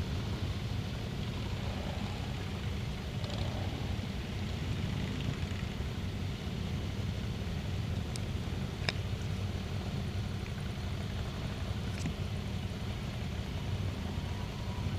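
Motorcycle engines idling steadily with a low, even rumble, with a few sharp clicks about halfway through.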